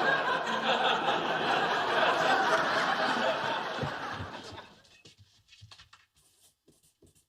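Sitcom studio audience laughing, dying away about five seconds in, followed by a few faint taps.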